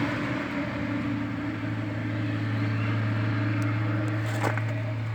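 Steady low mechanical hum of a running motor or engine, with a short metallic clink about four and a half seconds in.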